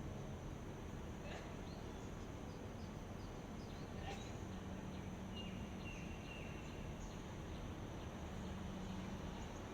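Outdoor dawn ambience: a steady hiss under a continuous high-pitched insect drone, with scattered short bird chirps and calls, a few of them about halfway through.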